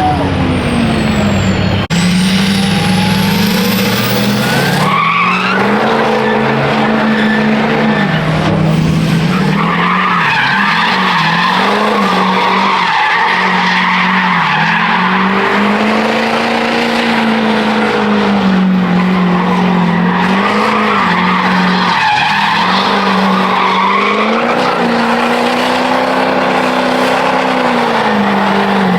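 Truck doing a burnout: the engine is held at high revs, its pitch rising and dipping slowly, over the hiss of the spinning, skidding tires.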